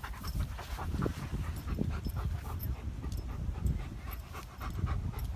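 A dog panting in short, quick breaths, over a steady low rumble.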